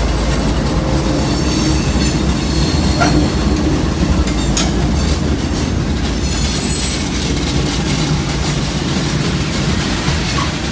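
Freight train rolling past close by: a steady rumble of wheels on rail, with some faint high wheel squeal.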